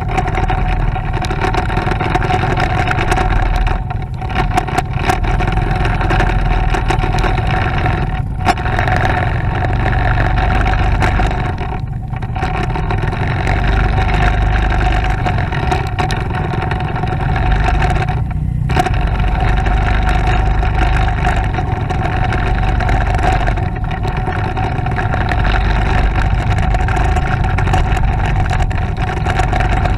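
Motorcycle engine running steadily on the move, with a constant rumble and road and wind noise. The engine sound drops briefly about five times and then picks up again.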